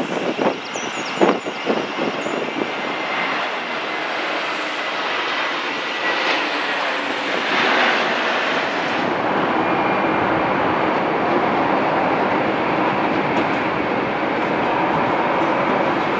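Electric multiple-unit trains running on the main line. In the first couple of seconds the wheels give a series of sharp clicks over rail joints and points. After that comes a steady rail noise, which grows a little louder and deeper about nine seconds in as another unit approaches.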